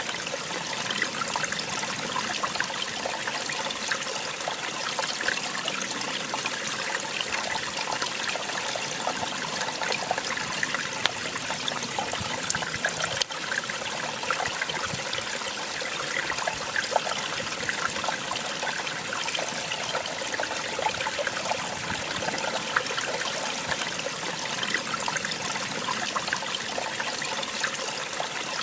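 Small waterfall, water pouring and splashing steadily with fine trickling detail. A single sharp click about thirteen seconds in.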